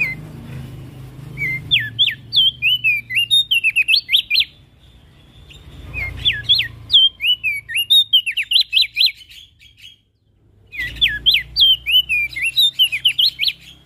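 Opior jambul (Javan grey-throated white-eye) singing three quick chattering phrases of sharp, down-slurred chirps, each lasting about three seconds, over a low steady hum.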